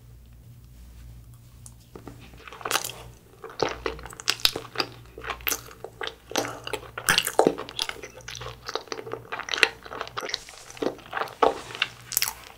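Close-miked chewing of a glutinous rice cake (chapssal-tteok) eaten frozen and slightly thawed: after about two seconds of near quiet, a long run of short, irregular mouth clicks and smacks.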